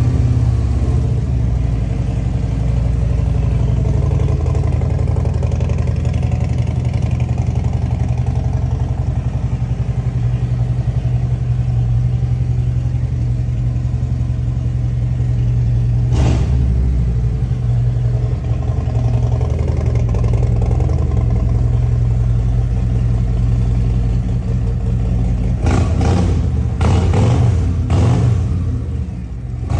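Harley-Davidson 2024 CVO ST Road Glide's 121 cubic-inch Milwaukee-Eight V-twin idling through a Tab Performance exhaust, with one short throttle blip about halfway through and several quick revs near the end.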